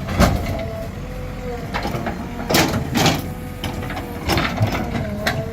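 JCB 3DX Plus backhoe loader's diesel engine running steadily under a wavering hydraulic whine, with about five sharp knocks and scrapes as its bucket works against hard stones.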